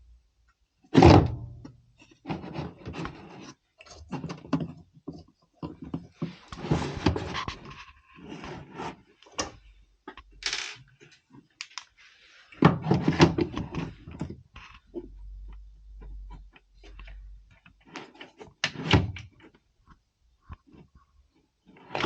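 Hand tools and loose parts knocking and clattering against a washing machine's cabinet while it is being taken apart, with several heavy thunks and some rubbing and scraping. The loudest thunks come about a second in, again a little past the middle, and once more a few seconds later.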